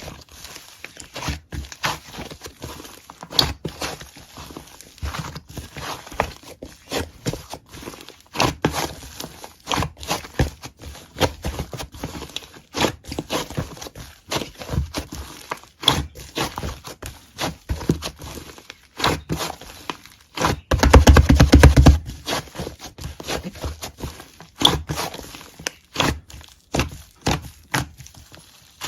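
Hands playing with a slime: irregular sticky clicks, pops and crackles as it is pressed, poked and stretched, with a louder, denser burst of crackling about 21 seconds in.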